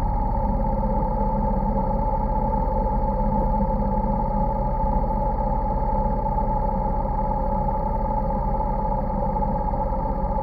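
Motorcycle engine running at a steady, unchanging speed, with no revving.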